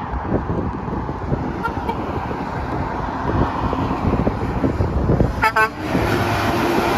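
A truck's engine running loud and close, with a short horn toot about five and a half seconds in, followed by a steady low drone.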